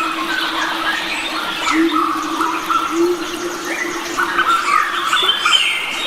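Mixed chorus of wild forest birds, many calling and chirping over one another in short whistles and squawks, over a steady low hum that swells now and then.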